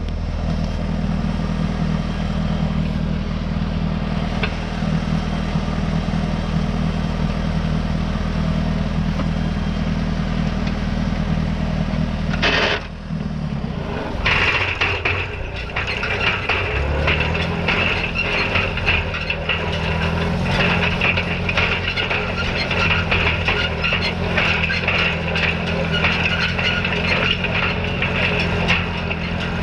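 Farm tractor engine running steadily while pulling a hay rake. About 13 seconds in the sound briefly drops away and changes, and from then on the engine runs at a different steady pitch under a dense clatter and crackle from the rake working the hay.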